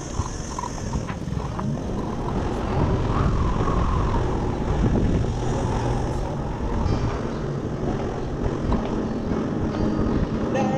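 Wind rumbling and buffeting on the microphone of a camera riding on a moving electric motorcycle, growing louder about two seconds in.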